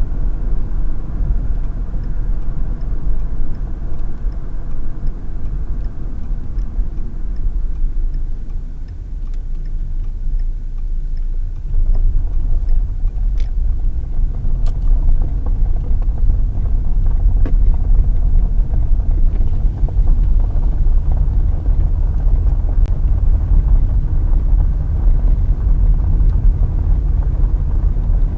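Car driving on the road, heard from inside the cabin: a steady low rumble of road and engine noise. It eases off about eight seconds in and picks up again and stays louder from about twelve seconds. A faint, evenly spaced ticking sounds through the first several seconds.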